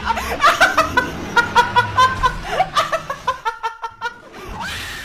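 Laughter in rapid, repeated ha-ha pulses that thin out after about three and a half seconds, followed by a brief hiss near the end.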